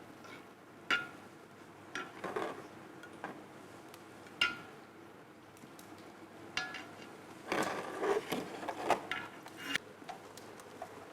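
Kitchen utensils and dishes knocking and clinking: single sharp knocks, some with a brief ring, then a busier run of clatter near the end.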